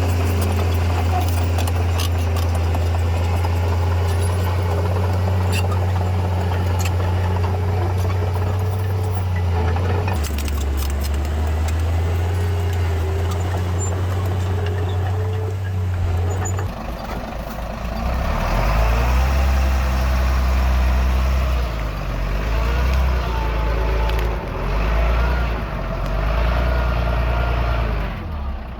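Diesel engines of heavy earthmoving machinery running: a steady low drone with occasional knocks, then about 17 seconds in the engine note changes and rises and falls for the rest of the time.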